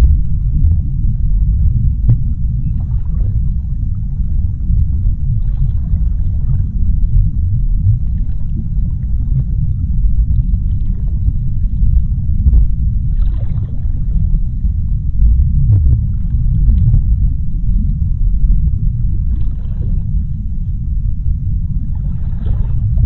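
Underwater sea ambience: a deep, steady rumble, with faint bubbling swishes coming and going every few seconds.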